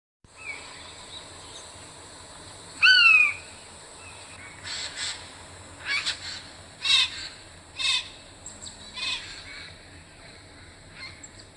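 Rufous treepie calling: one loud, fluting call with a falling pitch about three seconds in, then a run of shorter, harsher notes over the next few seconds, against a steady high hiss.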